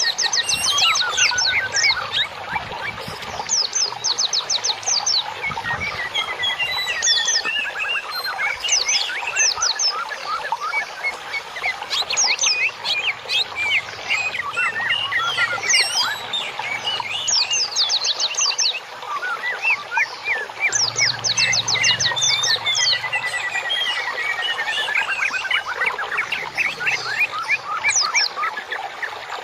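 Songbirds singing continuously: fast trills of short repeated notes, chirps and quick falling whistles overlapping one another, over a steady hiss. It is a masteran recording, birdsong played to caged songbirds for them to learn from.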